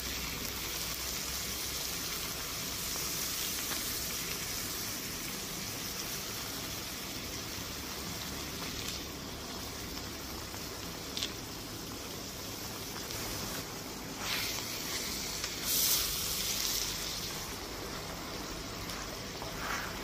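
Pork slices and spinach sizzling as they fry, a steady hiss with a few brief knocks about halfway through and again later.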